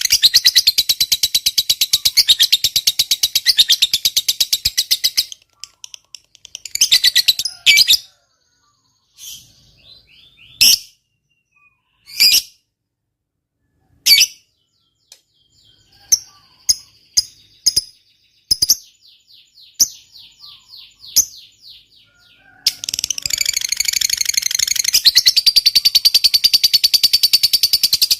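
Lovebird ngekek: a long, rapid, high-pitched chattering trill of many quick notes. It breaks off about five seconds in into scattered single chirps and short calls, then a second long chatter starts about five seconds before the end.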